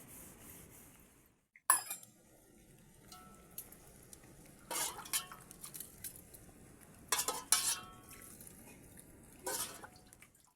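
Metal dishes and utensils clinking and clattering in about five short, separate bursts, some leaving a brief ringing tone.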